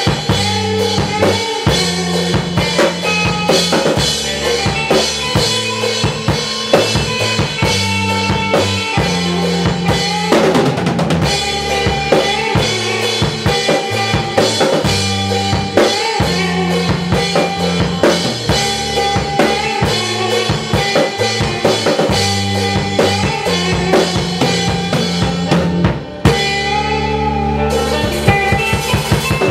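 Rock music with drum kit, bass guitar and guitar playing steadily, the bass moving through held notes under a busy snare and kick beat, with a short break about 26 seconds in.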